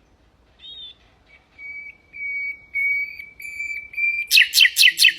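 Nightingale singing: a short rising note, then a run of pure whistled notes on one pitch that grow steadily louder, breaking near the end into a loud, rapid trill of harsh notes about six a second.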